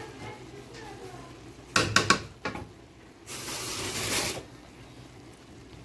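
Cooking pot and utensils clanking: a quick run of loud knocks about two seconds in and one more shortly after, then about a second of hissing.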